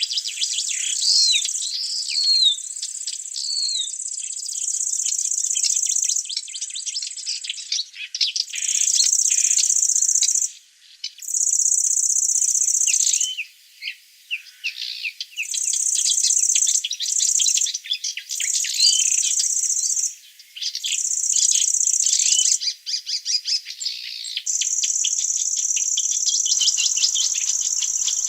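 Forest birdsong and insects: a bird gives a run of short downward-sweeping chirps early on. Then a high insect buzz starts and stops every couple of seconds, with rapid ticking chirps between, and near the end the buzz runs on without a break.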